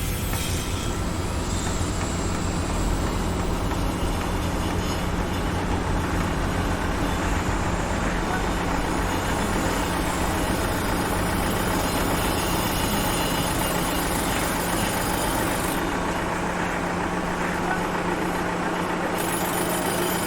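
Heavy vehicle engine running steadily at a construction site, a continuous low rumble and hum with general machinery noise over it.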